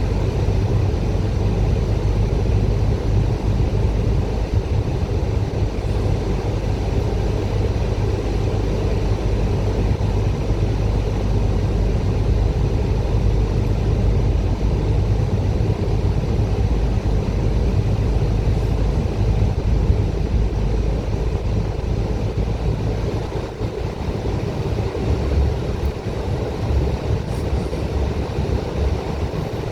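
Bus engine and road noise heard from inside the cabin: a steady low drone. It eases off a little near the end as the engine note shifts.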